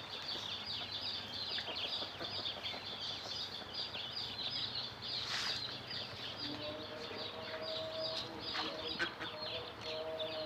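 Ducklings peeping: a dense, continuous stream of short, high cheeps from several birds. A faint steady tone joins about two-thirds of the way in.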